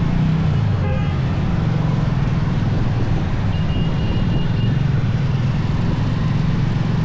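Motorcycle engine running steadily while riding, with road and wind noise over it. A thin high tone sounds for about a second midway.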